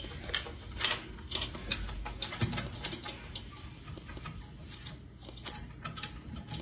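A quick, irregular series of light clicks and taps from a pet bird's beak and feet on a tabletop.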